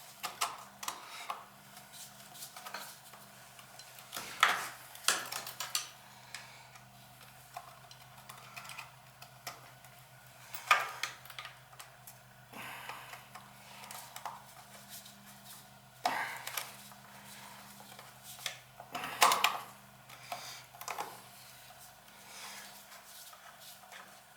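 Irregular metallic clinks and knocks of hand tools and parts being handled on a Beckett oil burner while its motor-to-pump coupler is swapped, with a few louder clanks. A steady low hum runs underneath.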